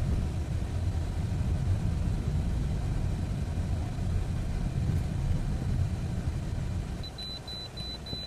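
Low, steady rumble of a car driving along a road. About seven seconds in the rumble eases a little and a rapid, high-pitched electronic beeping starts.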